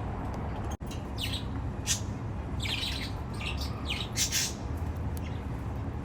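Baby budgies squawking and chirping in a run of short, high calls, busiest through the middle, over a steady low hum.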